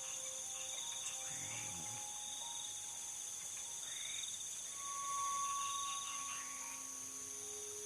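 Night chorus of crickets and other insects, steady high trilling, with a held mid-pitched tone for a second or two about five seconds in.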